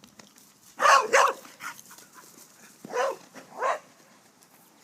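A dog barking four times, in two pairs of short barks a couple of seconds apart.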